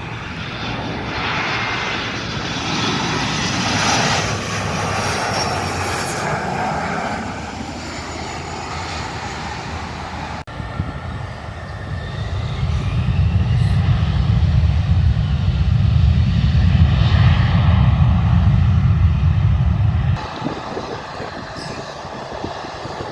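Jet airliners passing low overhead. The first loud pass peaks about four seconds in. After a sudden break, a second comes through with a heavy deep rumble and a rising engine whine, which cuts off abruptly about 20 seconds in.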